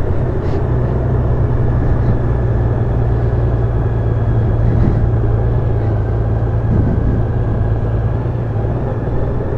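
Honda Gold Wing motorcycle running steadily at riding speed: a low, even engine hum under a constant rush of road and wind noise.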